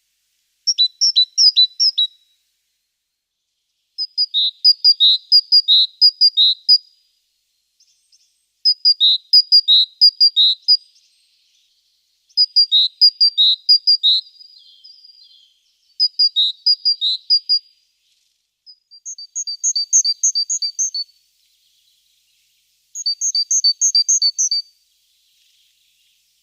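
Great tit singing: seven short phrases of quickly repeated two-note calls, each with a pause between. The last two phrases are pitched higher.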